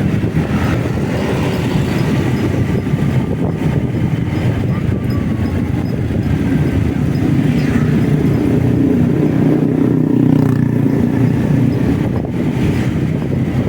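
Motorcycle riding along a road: steady engine and road noise, swelling a little past the middle.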